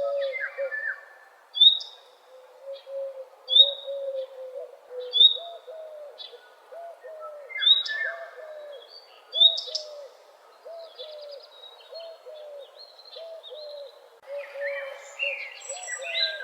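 Morning bird chorus with several birds singing. A run of short, low notes repeats about twice a second, and a sharp, high, down-slurred note recurs every second and a half to two seconds. Near the end a burst of faster, varied song comes in.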